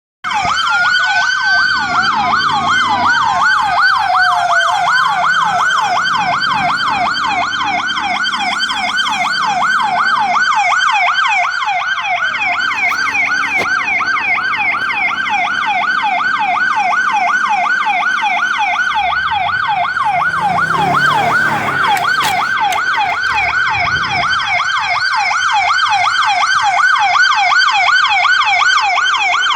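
Emergency vehicle siren in a rapid yelp, sweeping up and down several times a second. A second siren's slower wail rises and falls over it for the first few seconds.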